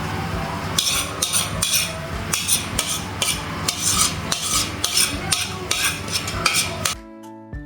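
A spoon stirring frying pork and seasoning in a pot, with repeated scraping strokes about two a second over a steady frying noise. Near the end it cuts abruptly to plucked-string background music.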